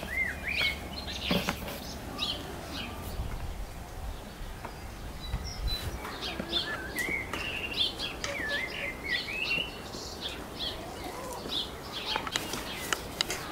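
Songbirds chirping and warbling in quick, varied calls, with a few soft knocks from hands working dough on a wooden board.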